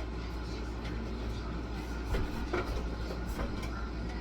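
A few light knocks and clicks, like containers being handled, over a steady low hum.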